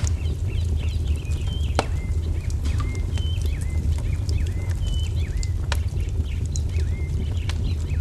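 Wood fire crackling, with a steady low rumble and sharp pops scattered throughout, two of them louder about 2 and 6 seconds in. Over it a small songbird repeats short chirps, roughly one or two a second.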